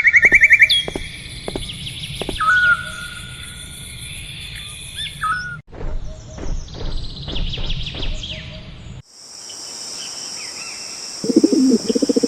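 Birds chirping and calling, with whistled notes and rapid trills, over a low steady rumble. The sound cuts off abruptly twice. After the second cut a steady high hiss sets in, joined near the end by a louder, lower warbling sound.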